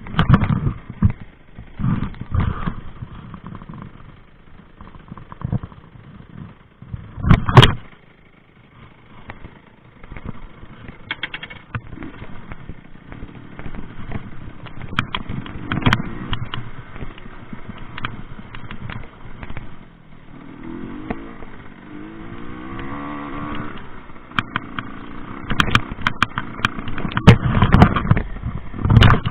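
Rieju MRT 50 two-stroke moped engine revving up and down under off-road riding, over many knocks and rattles from the bike. There is a loud thump about seven and a half seconds in and a burst of clatter near the end.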